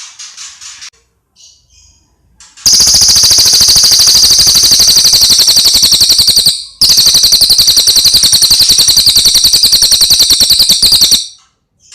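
Bird calling from a bird-song training recording: a short call, then two long, loud, rapid rattling trills of about four seconds each, with a brief break between them.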